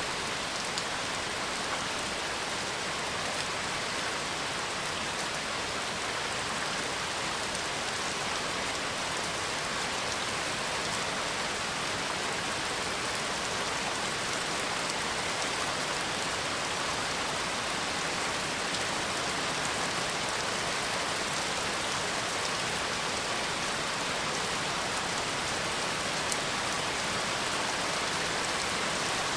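Steady rain, an even hiss of many drops falling on a surface, with no thunder heard.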